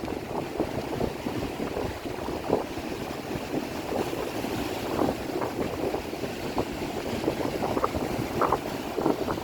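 Rain and wind outdoors: a steady rushing noise with many irregular short spatters and splashes.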